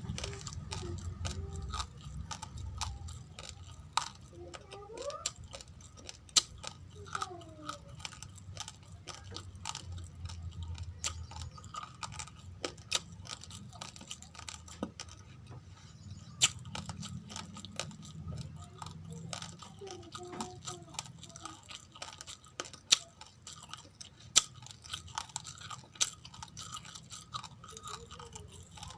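Close-up chewing of raw, uncooked rice grains: a steady grinding crunch broken by sharp, irregular cracks as the hard grains break between the teeth.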